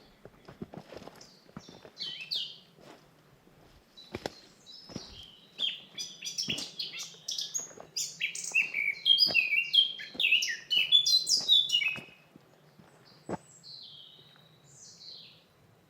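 Forest birds singing: quick chirps and twittering phrases, busiest and loudest in the middle stretch, thinning to a few calls near the end. A few soft scattered clicks sound under the song.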